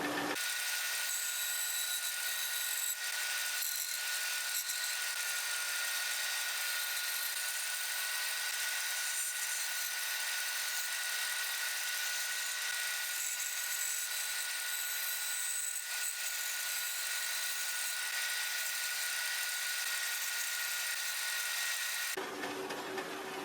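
Power tool running steadily against wood, a high-pitched grinding hiss with a steady whine over it; the sound changes abruptly near the end.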